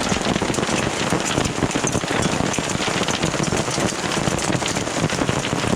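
Dime-size hail falling with rain, a dense, steady patter of countless small hits.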